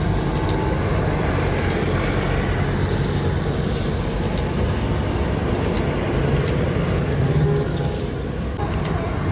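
Tractor engines running with a steady low drone, a little louder about seven seconds in.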